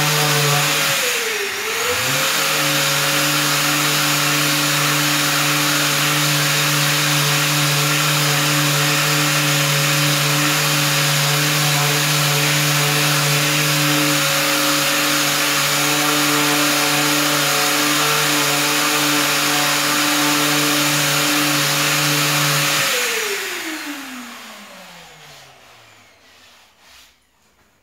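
Power sander running steadily while sanding a plastic car bumper down to bare plastic. Its pitch dips briefly and recovers near the start. About 23 seconds in it is switched off, and its pitch falls as it spins down.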